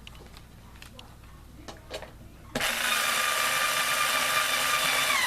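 Electric screwdriver driving a screw into a box fan's grill: a few light handling clicks, then about halfway in the motor starts with a steady whine that dips in pitch near the end as the screw tightens.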